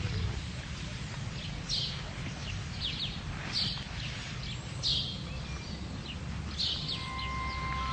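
Birds chirping: short high calls repeating every second or so over a low, steady outdoor rumble. Near the end a held music tone comes in.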